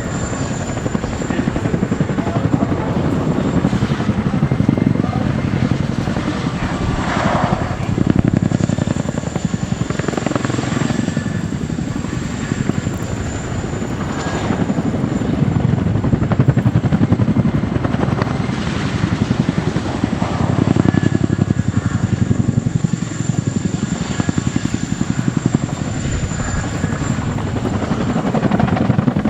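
JASDF CH-47J Chinook tandem-rotor helicopter hovering and slowly turning in place: fast rotor-blade chop over the steady high whine of its twin turboshaft engines. The chop swells and fades every few seconds as the helicopter turns.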